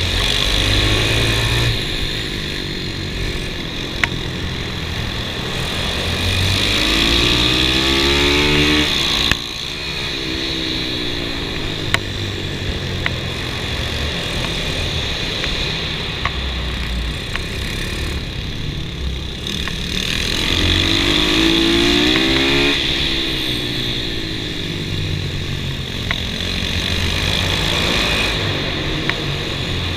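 Kawasaki KLX110 minimoto with a 143 cc big-bore kit being ridden hard, its single-cylinder four-stroke engine revving up and falling back through the corners in long rising and falling sweeps. A few sharp clicks cut through.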